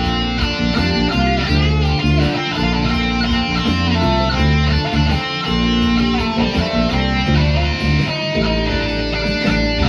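Instrumental guitar music: a guitar melody with bending notes over a moving bass line and a steady beat.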